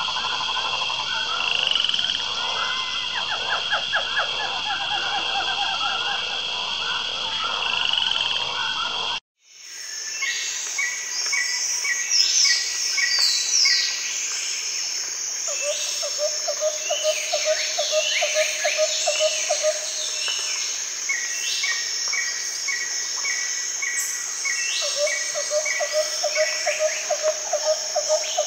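Tropical rainforest soundscape: frogs croaking in chorus, with bird calls and a high insect buzz. About nine seconds in it cuts out briefly, then resumes with repeated bird notes and two long runs of pulsed frog trills.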